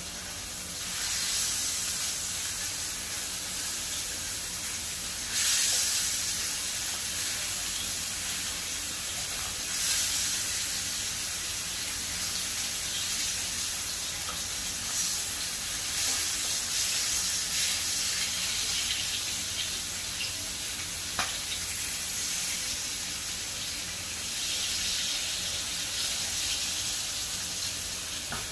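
Salmon fillets frying in hot oil in a pan: a steady high-pitched sizzle that swells louder several times as the pieces are moved and turned with tongs.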